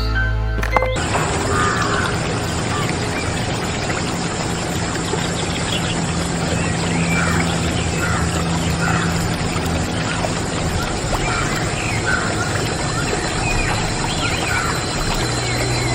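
Water running and pouring steadily from a homemade toy water pump, with short high squeaks about once a second.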